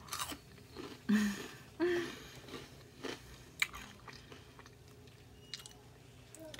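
Close-up chewing of Flamin' Hot Cheetos covered in nacho cheese: irregular crunches and wet mouth sounds, with a couple of brief hums of voice in the first two seconds.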